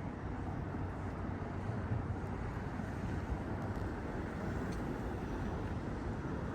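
Steady low rumble of road traffic in a city street.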